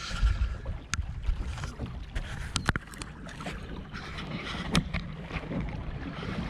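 Low wind rumble on the microphone aboard a small fishing boat, broken by a few sharp clicks and knocks, two of them close together about two and a half seconds in.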